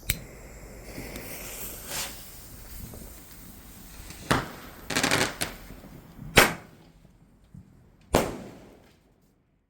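Fireworks going off: a series of sharp bangs about every one to two seconds, with a quick burst of crackling about five seconds in.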